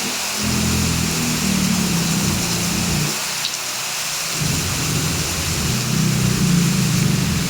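Heavy rain falling steadily. A low rumble comes in twice over it: once near the start for about two and a half seconds, and again from about halfway through to the end.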